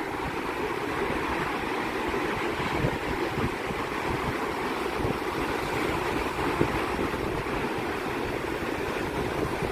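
Sea surf: a steady rush of waves breaking and washing, with wind buffeting the microphone.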